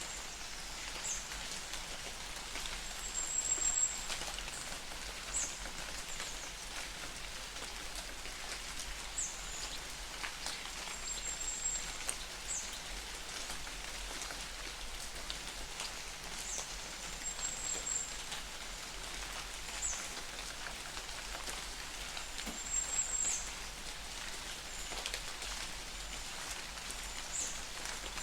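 Light rain falling in a forest, a steady hiss of fine drops pattering on leaves. A bird gives a short, high chirp every few seconds throughout.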